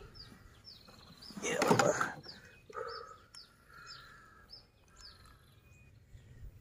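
A bird calling over and over, a short falling chirp about twice a second, with a brief loud rustle about a second and a half in.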